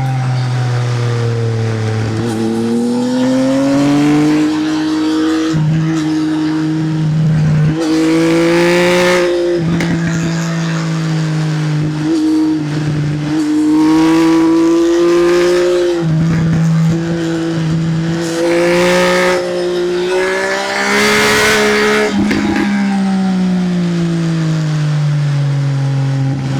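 Triumph Speed Triple's three-cylinder engine through an SC Project aftermarket exhaust, riding hard through curves: the note climbs under throttle, drops in steps at gear changes, and falls away near the end as the bike slows. Short bursts of rushing noise come in at several points.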